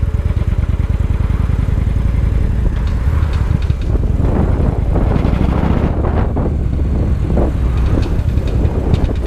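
Victory Highball motorcycle's V-twin engine running steadily while riding at low speed.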